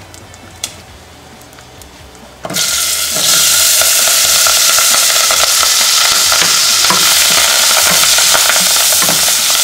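Hot oil with garlic frying quietly with small crackles. About two and a half seconds in, curry leaves and green chillies are dropped in and a loud sizzle breaks out, running on steadily while they are stirred with a wooden spatula.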